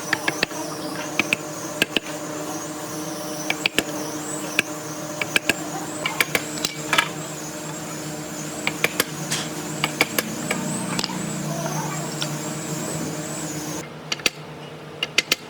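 A woodworking power machine running steadily with a wavering high whine and frequent sharp clicks and ticks, then cutting off suddenly near the end.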